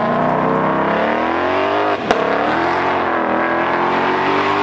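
Car engine accelerating hard, its pitch climbing steadily, breaking off with a sharp crack about two seconds in, then climbing again.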